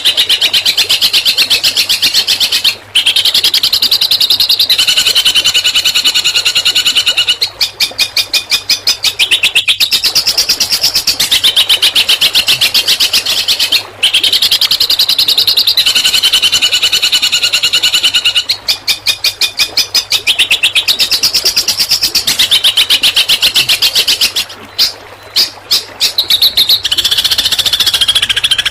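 Songbird singing a rapid-fire 'tembakan' song: very fast repeated high notes in runs of a few seconds, with short breaks between runs and the pitch shifting from one run to the next. A faint low hum lies underneath.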